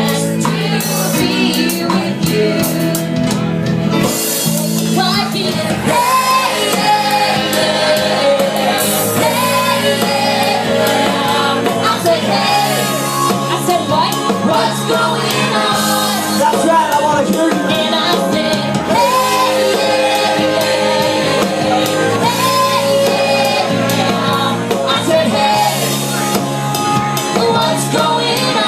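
Live band playing a song with a singer's voice over the instruments.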